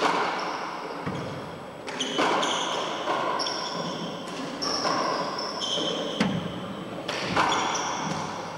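Handball rally in an enclosed four-wall court: the hard rubber ball slaps against the walls and players' hands in sharp, echoing hits every second or two, with shoes squeaking on the court floor between hits.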